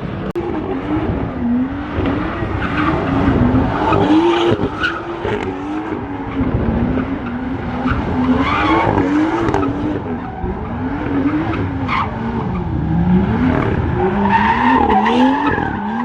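Drifting car's engine revving up and down over and over, about once a second, as the throttle is worked, over continuous tyre screech.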